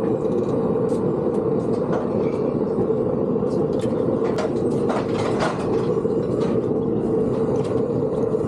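A steady machine drone with a few sharp knocks about four to five and a half seconds in.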